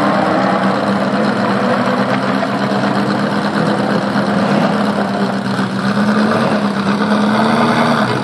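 Ferrari F40's twin-turbo V8 idling and creeping at low revs. It is a steady engine note whose pitch drifts slightly up, then dips just before the end.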